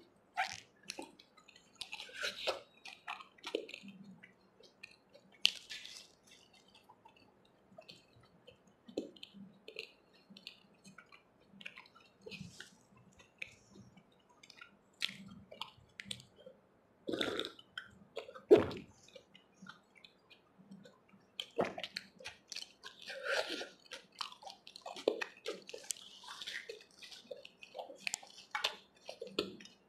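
Close-miked chewing and wet mouth sounds of eating chole with puri, mixed with soft squishing of the curry-soaked fried bread handled by hand; irregular smacks and clicks, with two louder ones about two-thirds of the way through.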